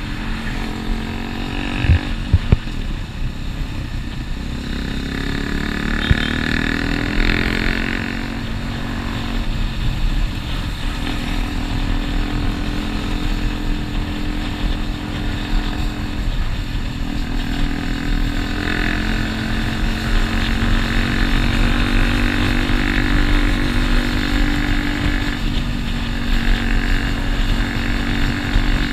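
Motorcycle engine running while riding, its pitch rising and falling with the throttle over a steady low rumble, with a few short knocks about two seconds in.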